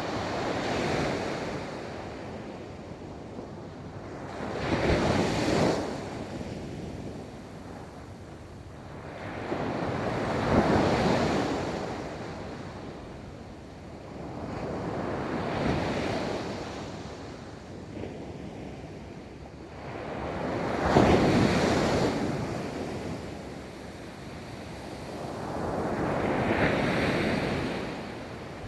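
Ocean waves breaking and washing up a beach, one swell of surf about every five seconds, rising and falling away in turn.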